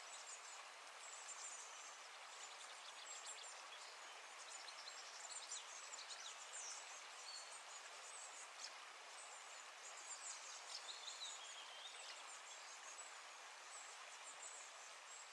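Faint outdoor ambience: a steady hiss with scattered short, high chirps throughout.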